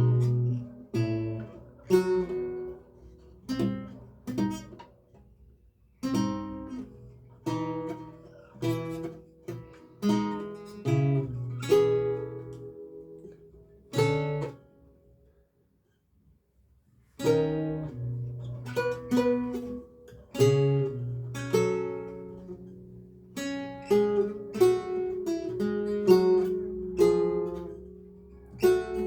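A lute played solo: a recercar picked out in single plucked notes and chords, with a pause of about two seconds just past halfway before the playing starts again.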